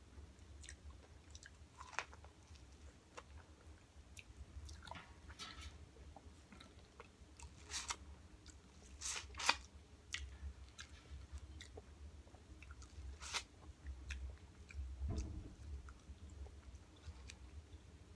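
Biting kernels off a corn on the cob and chewing them: scattered short crunchy bites and wet chewing clicks close to the mouth, loudest in a cluster around the middle. A low steady hum runs underneath.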